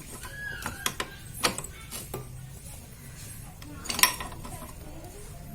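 Spanner and pipe wrench clinking and knocking against the variator nut and drive parts of a scooter's CVT while the reverse-threaded nut is being turned. There are a few sharp metallic clicks in the first second and a half, and a louder clank about four seconds in.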